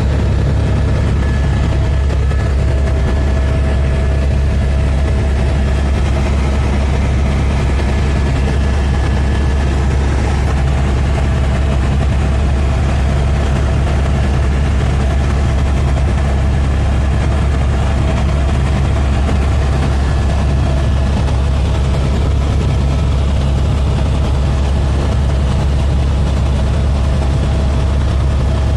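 Helicopter in flight: a loud, steady drone of engine and rotor, with faint steady whines higher up.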